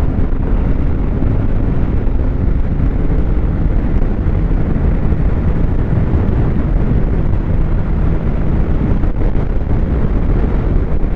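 Snowmobile engine running steadily while riding, with wind rushing over the microphone.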